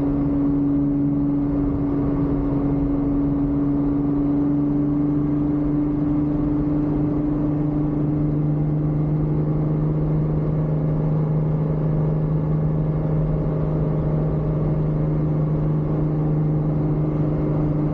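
Lotus Exige's supercharged V6 engine heard from inside the cabin, running at a steady, unchanging engine note at constant speed, over constant road and wind noise.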